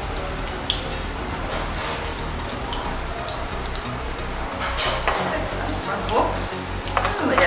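Onion pakoras sizzling in hot oil in a kadai during their second frying for crispness. Light clinks and scrapes of a metal slotted spoon stirring them come through near the end.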